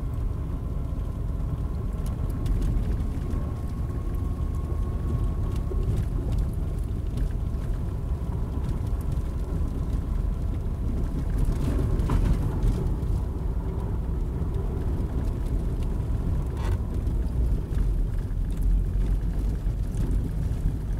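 Steady low rumble of a car driving on snowy roads, heard from inside the cabin, with a few faint clicks about 12 and 17 seconds in.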